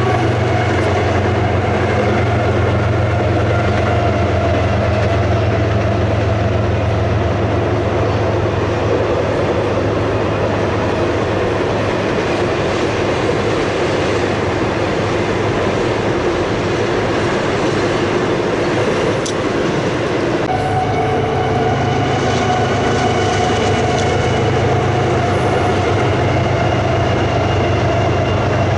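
A freight train passing close by: the diesel engines of its two lead CSX locomotives, then the steady run of loaded stack cars and autorack cars, their wheels clacking over the rail joints. The sound shifts abruptly about two-thirds of the way through.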